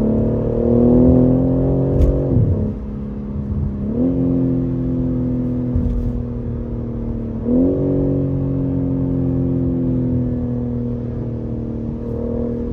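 BMW M3 Competition's twin-turbo inline-six engine and exhaust under acceleration. Its pitch climbs, drops sharply at a gear change about two seconds in, and jumps up again twice, at about four and about seven and a half seconds.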